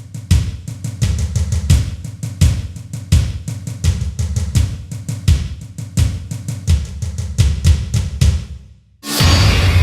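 Drum kit playing a busy beat, bass drum and snare hitting several times a second. The drums stop abruptly near the end and a loud, dense noise takes over.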